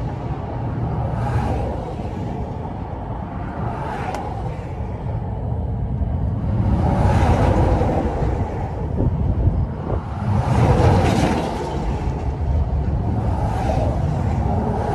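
Vehicles passing a stopped truck on the highway: a whoosh that swells and fades every few seconds over a steady low engine rumble.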